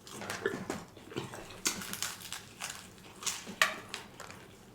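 Close-miked eating sounds: crunching bites of fried chicken, an irregular string of sharp crackles and clicks, the loudest near the end.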